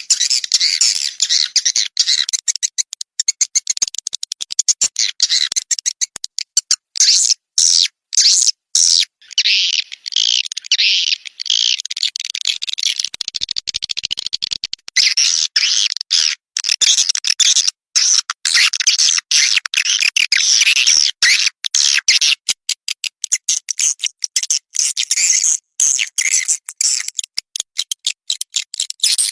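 A songbird singing in a fast, continuous run of high-pitched chirps and trills, broken by many brief gaps.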